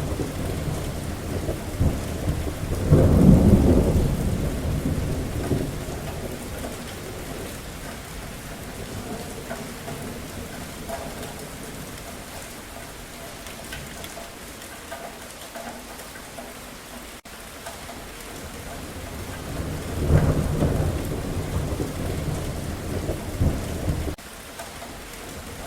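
Steady rainfall with rolling thunder: a loud low rumble swells about three seconds in and fades slowly. Another rumble builds about twenty seconds in, while the rain keeps falling between them.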